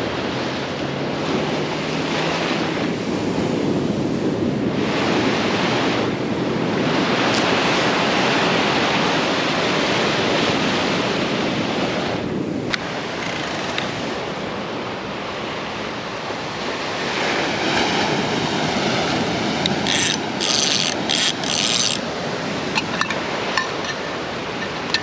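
Ocean surf washing steadily on the shore, swelling and easing in waves. A quick run of sharp clicks near the end.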